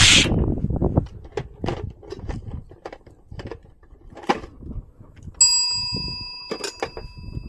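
Small clicks and knocks of handling, then a metal object struck once about five seconds in, ringing with a bell-like tone that fades over about two seconds.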